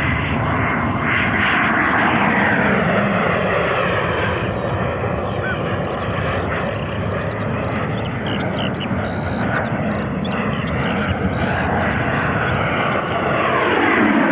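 Electric ducted-fan jet model with a 120 mm 12-blade JP Hobby fan on an HET 700-98 motor, flying at high power. Its fan whine and rush slide in pitch as it passes, with a falling sweep about two seconds in and another falling then rising sweep near the end.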